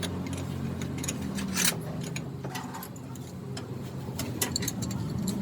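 A low steady mechanical hum with irregular clicks and taps.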